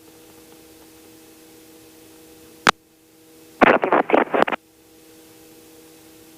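Aircraft intercom and radio audio: a faint steady hum, a single click about two and a half seconds in, then about a second of choppy, garbled radio transmission.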